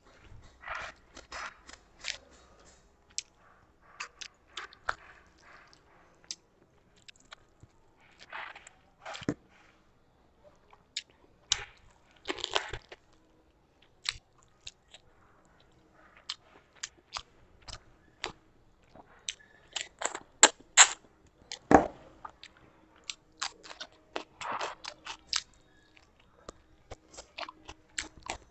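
Close-miked eating sounds: a person chewing and biting food eaten by hand, with wet smacking and many sharp crunchy clicks. A cluster of louder crunches comes about two-thirds of the way through.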